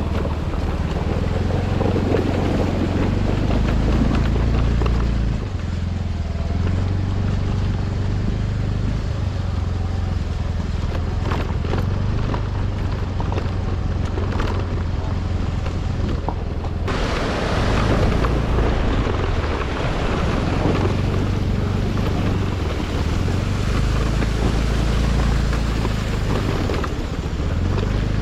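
A vehicle's engine running on the move, with wind buffeting the microphone as a steady low rumble. It turns brighter and hissier about two-thirds of the way through.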